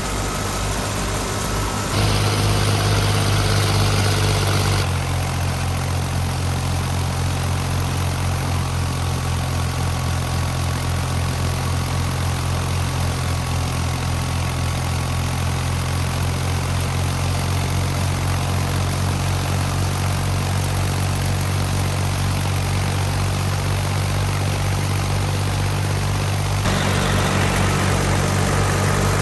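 Fiat 480 tractor's diesel engine running steadily under load while driving a wheat thresher, with an even low throb. The sound shifts abruptly a few times.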